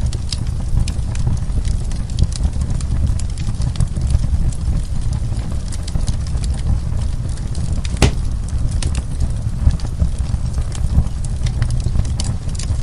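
Wood fire burning: a steady low rumble of flame with irregular sharp crackles and pops, one louder pop about eight seconds in.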